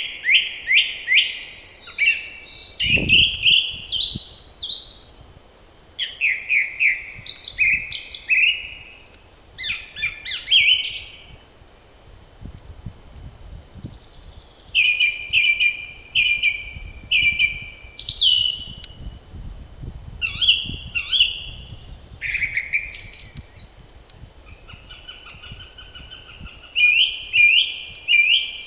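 Spring songbirds singing: short phrases of quick notes, one after another with brief pauses, over a faint low wind rumble. A single low thump about three seconds in.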